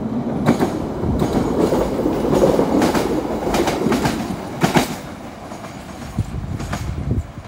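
Ex-London Underground 1938 Stock electric tube train passing close beneath, its wheels clacking over rail joints. The sound fades after about five seconds as the train runs away down the line.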